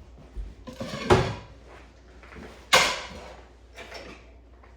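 Two sharp kitchen clunks about a second and a half apart, with a fainter knock near the end: things being handled and set down while cooking.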